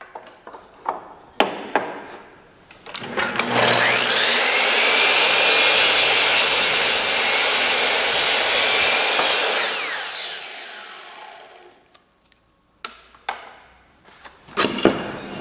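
A woodworking power tool spins up about three seconds in, cuts white oak for about six seconds, then winds down with a falling whine. A few sharp knocks of wood being handled come before and after.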